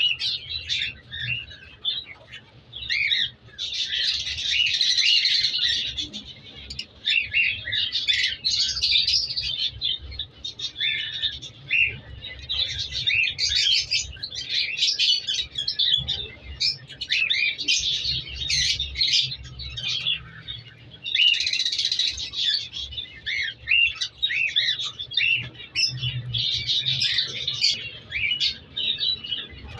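Cockatiels chirping and calling, many short high chirps overlapping without pause, growing busier in stretches about four seconds in, around twenty-one seconds and near the end.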